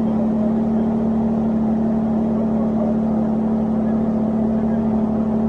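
Motorboat engine running at a steady speed with a constant, even drone.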